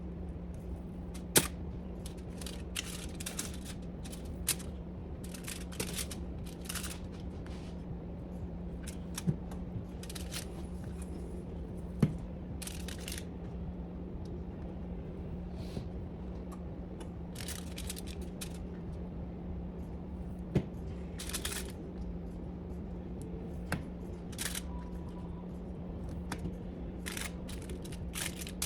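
Kitchen handling sounds: repeated short rustles and crinkles of packaging or paper, with a few sharp clicks and knocks of things being set down or tapped, over a steady low hum from an appliance.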